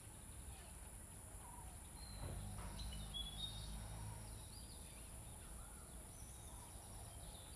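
Quiet background with a low steady rumble, and a few faint bird chirps about two to four seconds in.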